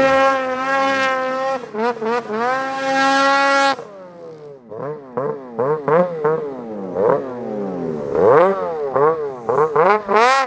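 Snowmobile engine running at steady high revs for nearly four seconds, then dropping off abruptly; after that the engine revs rise and fall over and over, about twice a second, as the throttle is worked on and off.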